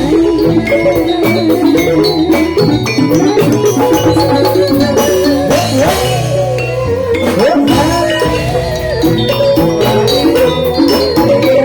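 Jathilan music: a Javanese gamelan-style ensemble of tuned metal percussion and drums playing with a steady beat.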